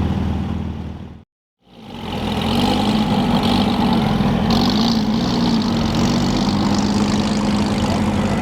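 Car engine running at low revs, a steady idle with a slightly wavering pitch. About a second in it fades out to a brief silence, then fades back in.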